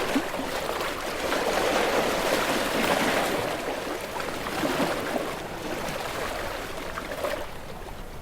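Small, gentle waves washing onto a shore: a wash of water with bubbling and fizzing that swells over the first few seconds, then slowly ebbs away.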